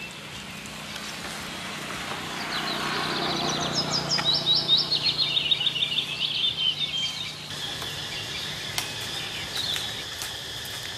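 Birds chirping over steady background noise, with a quick run of high, repeated chirps from about three to seven seconds in. A few light crackles near the end.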